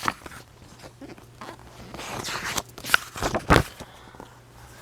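Paper rustling and handling noises from a book being handled, with a louder rustle and thump about three and a half seconds in.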